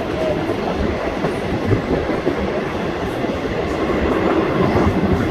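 Passenger train running on the rails, heard from inside a carriage as it nears the station.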